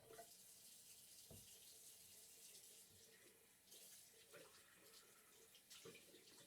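Bathroom tap running into a sink while hands are washed under it: a faint, steady stream of water broken by irregular splashes, with a soft bump about a second in.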